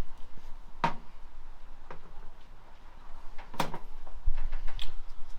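Four separate sharp clicks and knocks of hand tools and metal parts being handled while parts are fitted to an engine during assembly.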